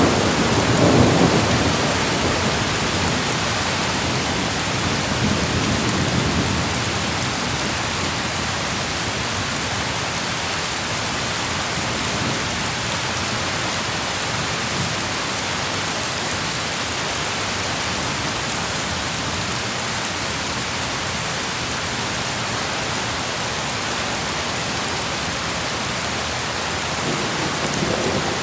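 Steady rain hissing down, with thunder rumbling low at the start, a weaker roll a few seconds later, and another faint rumble near the end.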